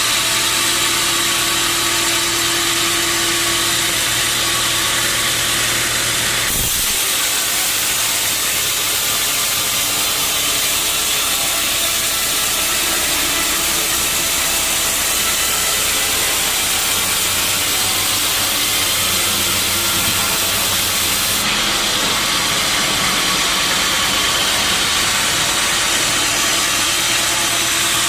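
Sawmill saw running steadily with a machine hum; from about six to twenty-one seconds in, a harsher hiss joins as the blade cuts through a teak log.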